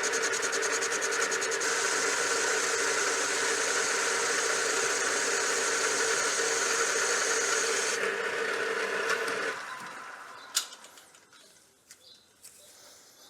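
A power tool machining a steel part square, running steadily, then switched off about nine and a half seconds in and spinning down. A single sharp click follows.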